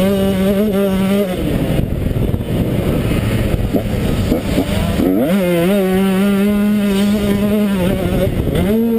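Motocross bike engine at high revs, heard from the rider's helmet: it holds a steady note, drops off the throttle into a rougher, uneven sound about a second in, then revs back up a little after five seconds and holds again, with a short dip and rise near the end.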